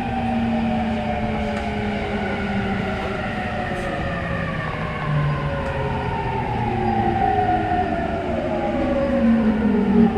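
Mitsubishi IGBT-VVVF inverter and traction motors of a JR E231-800 series commuter train whining in several tones that fall steadily together, over wheel-on-rail running noise, as the train brakes on its approach to a station.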